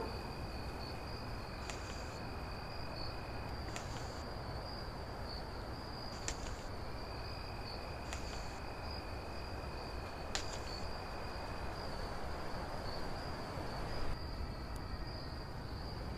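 Insects, likely crickets, trilling steadily in one continuous high-pitched pulsing note. A second, lower trill comes and goes for a few seconds at a time. The background hiss is faint.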